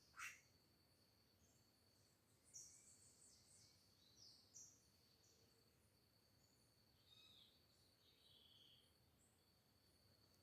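Faint natural ambience: an insect drones on one steady high note while birds give scattered short high chirps. A brief sharp call sweeps down in pitch just after the start and is the loudest sound.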